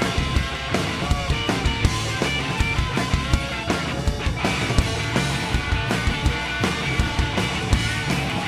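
Rock band playing an instrumental passage between vocal lines, with a drum kit keeping a steady beat under bass and electric guitar, the guitar bending notes.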